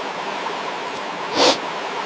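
Steady rush of running water, with one brief sharp sound about one and a half seconds in.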